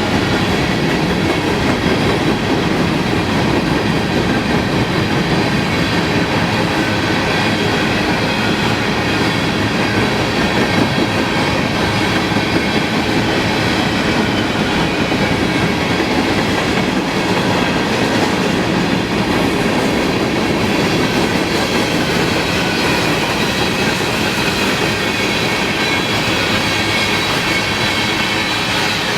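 Cars of a Canadian Pacific freight grain train rolling past at steady speed: a continuous rumble of wheels on rail with faint, steady high-pitched tones from the wheels.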